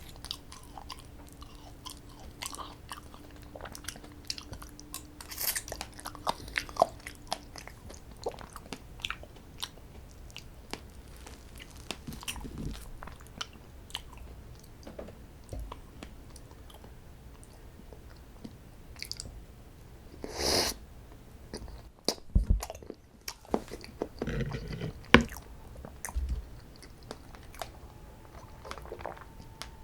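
Close-up eating of strawberry desserts: biting and chewing, with many short clicks and an occasional crunch, and a louder burst of noise about twenty seconds in.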